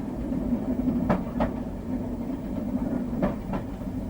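Steady running rumble heard inside the driving cab of a Merseyrail Class 508 electric multiple unit, with two pairs of short clicks, about a second in and again near the end, as the wheels cross rail joints.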